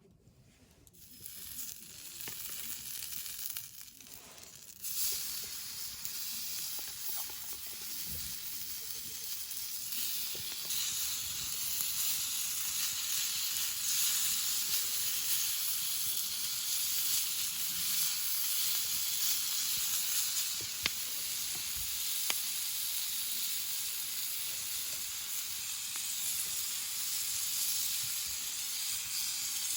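Meat sizzling as it cooks: a steady frying hiss that starts about a second in, falters briefly, then holds, with a few small pops.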